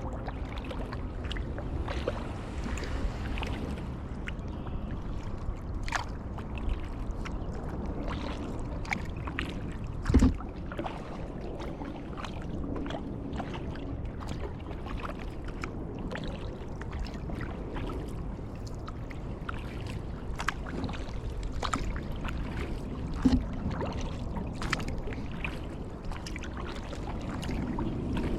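Kayak paddling: the paddle blades dip and splash, and water drips off them in many small ticks. Two louder thumps come, one about a third of the way in and one later on.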